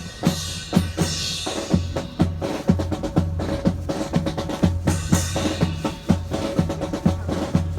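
Drum cadence of snare and bass drum beating a steady, regular rhythm.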